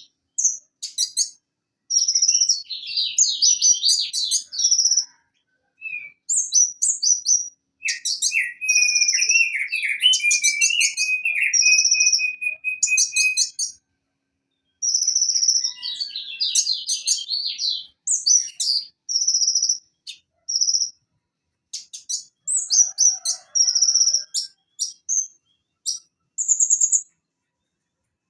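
Purple-throated sunbird (konin) singing: rapid high-pitched chirps, twittering trills and short clear whistles in quick phrases separated by brief pauses, with a longer, lower rattling trill about a third of the way through.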